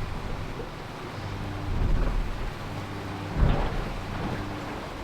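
Rumbling wind and water noise aboard the IMOCA 60 racing yacht Holcim-PRB under sail, with a low hum that comes and goes and a heavy thump about three and a half seconds in.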